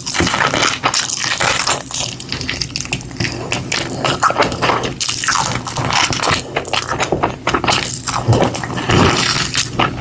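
Close-miked wet eating sounds: chewing, with many small clicks and smacks from the mouth.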